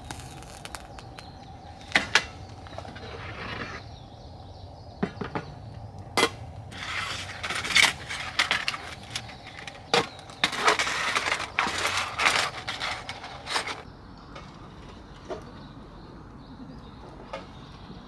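Camp cooking gear being handled: scattered clinks and knocks of utensils and cookware, with two louder stretches of rustling and scraping, about seven seconds in and again near the middle. A faint steady tone runs underneath.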